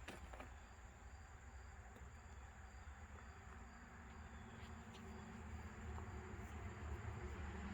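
Faint background ambience: a low rumble and steady hiss with a thin high whine or insect-like drone, growing slightly louder near the end.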